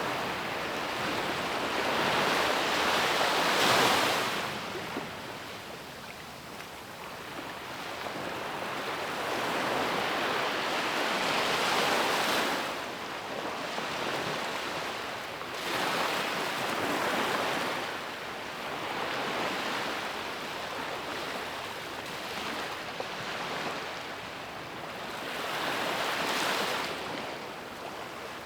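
Ocean waves breaking and washing up a beach, in a series of surges that swell and fade every few seconds, the loudest about four seconds in.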